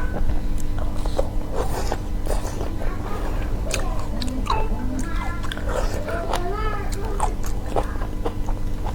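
Close-up eating sounds: biting and chewing seafood, with many short crunching clicks.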